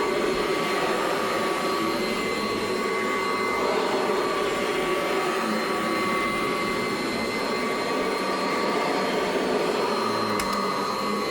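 A 1982 Kirby Heritage 1 upright vacuum cleaner running steadily: the motor and fan make an even rush with a steady high whine over it.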